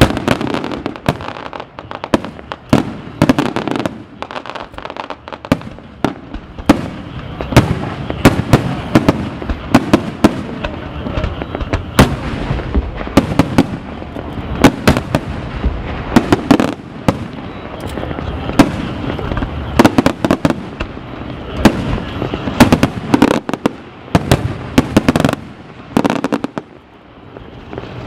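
Aerial firework shells bursting in rapid, irregular succession: many sharp bangs, several a second at times, over a continuous background of noise. The barrage eases briefly near the end, then the bangs pick up again.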